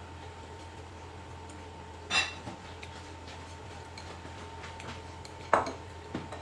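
Tableware knocking twice, about three seconds apart, with the first knock ringing briefly like a dish being clinked.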